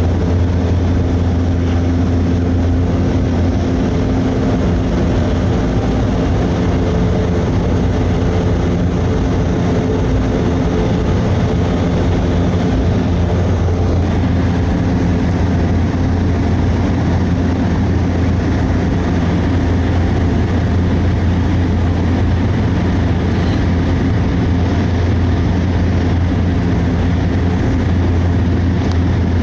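Cessna 208B Grand Caravan in flight: the steady drone of its single Pratt & Whitney PT6A turboprop and propeller, loud and unchanging, heard from inside the cabin.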